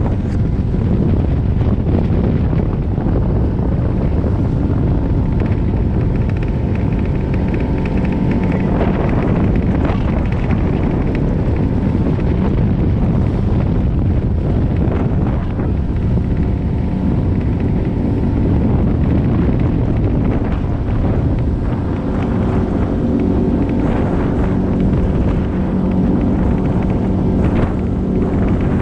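Boat motor running steadily under heavy wind buffeting on the microphone, with the motor's hum fading in and out of the wind noise.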